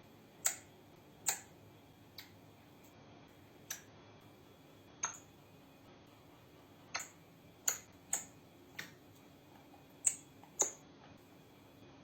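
A series of short, sharp clicks or taps, about a dozen at irregular intervals, over a faint steady hum.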